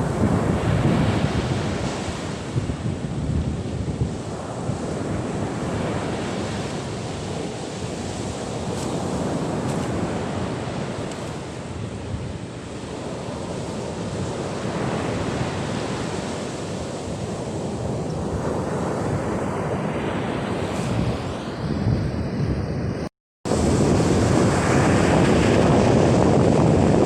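Stormy seafront: strong wind gusting against the microphone over surf breaking on the beach, rising and falling in swells. The sound drops out for a moment about 23 s in and comes back louder.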